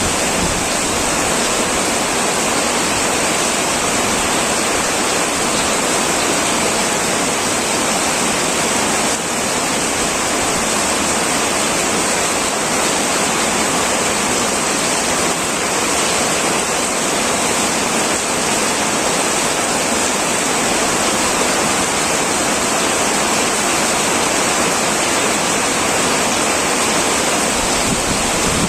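Heavy rain falling steadily on a tin roof, an even, unbroken downpour.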